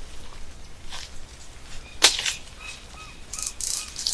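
A single sharp crack about halfway through, like a whip or a snapping stick, followed by a few faint short chirps repeating about three times a second.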